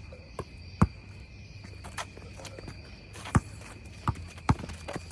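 A basketball bouncing hard on an outdoor court: a string of sharp, irregular thuds, the loudest about a second in and about three and a half seconds in. Under them runs a steady high-pitched drone of insects.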